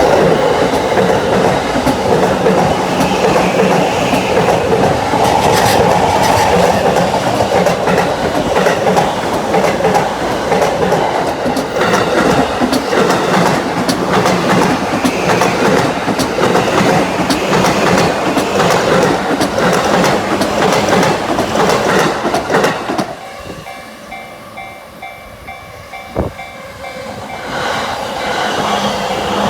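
A JR Yamanote Line electric commuter train running over a level crossing, wheels clattering on the rails. Near the end the train noise drops away, leaving the crossing's warning bell ringing about twice a second, before train noise rises again.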